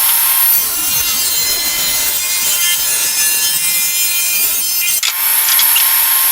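Table saw running with a steady whine while its blade cuts a 2x6 lengthwise at an angle, pushed along an angled guide board. The cut is interrupted briefly about five seconds in.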